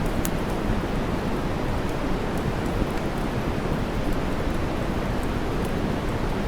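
Steady white noise, deep and even, with faint campfire crackles popping here and there over it.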